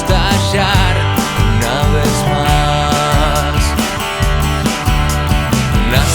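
Rock band music: drum kit, bass and electric guitars playing together, with regular drum hits and a melody line bending in pitch near the start.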